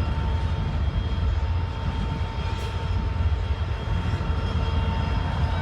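Freight train cars rolling past: a steady low rumble with a thin, steady whine riding over it.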